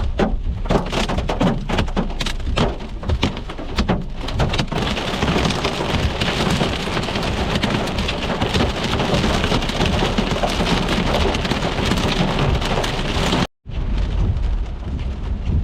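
Hailstones falling hard and striking surfaces: a rapid patter of separate hits for the first few seconds, then a dense, steady clatter. It cuts out briefly near the end, then comes back.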